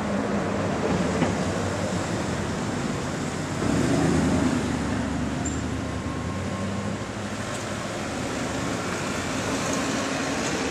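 Road traffic noise over a steady rushing background, with a vehicle passing, loudest about four seconds in.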